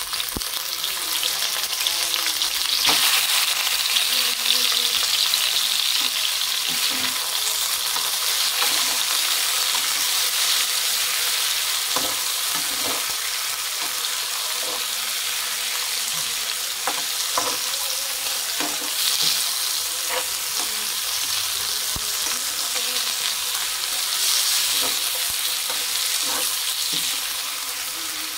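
Raw chicken pieces sizzling in hot oil with onion and garlic in a frying pan. The sizzling swells at times as the pieces are pushed and turned, with scattered taps and scrapes of a metal spatula against the pan.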